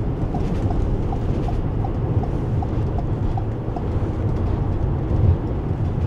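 Steady engine and road noise inside a moving van's cabin. A regular light ticking, about three ticks a second, runs through the first four seconds and then stops.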